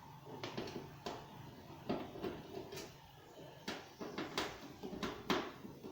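Sharp, irregular clicks and knocks, about ten over several seconds, from tools and panel handling as screws are loosened on a washing machine's back panel.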